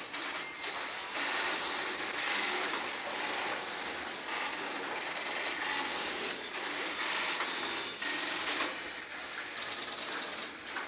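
Continuous hissy mechanical working noise from a machine or tool, swelling and easing in loudness every second or two.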